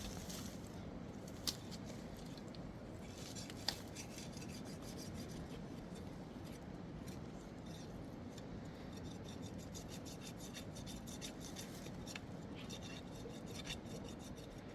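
Rasping, scraping sounds with many small clicks, and two sharper clicks in the first four seconds.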